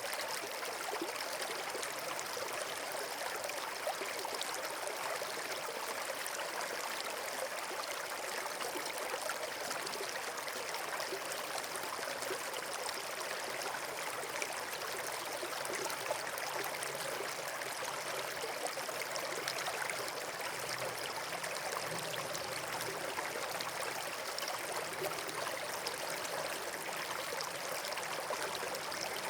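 Running water of a stream or small waterfall: a steady rushing with fine trickling that never lets up.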